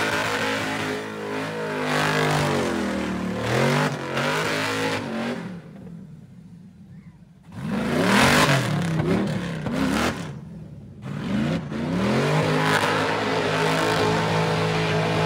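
Car engine revving hard, its pitch rising and falling several times, dropping almost quiet for a couple of seconds near the middle, then held steady at high revs toward the end.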